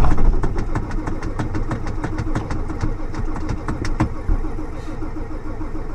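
Ford F-250 diesel engine cranking on its starter in the cold without catching, the starter's steady hum broken by irregular sharp knocks several times a second, a stronger one about four seconds in.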